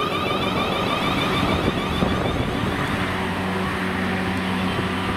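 A train running, with a steady mechanical hum carrying constant pitched tones over a rumble; a higher whine fades out about halfway through.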